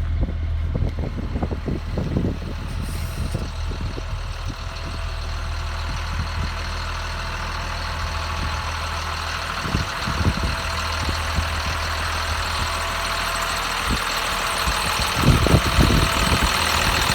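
Caterpillar C7 inline-six diesel in a school bus idling steadily, with a few low thumps on the microphone along the way.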